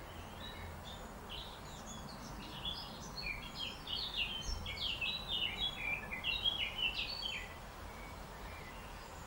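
A songbird singing one long, rapid, varied song of short chirps and trills lasting several seconds, over a steady low background rumble.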